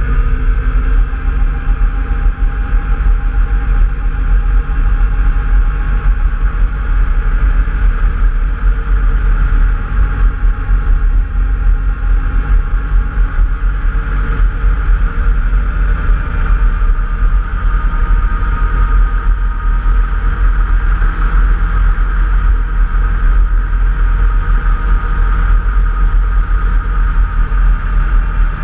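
Off-road trail vehicle engine running under way. Its pitch rises a little at the start and then holds steady, over a strong low rumble.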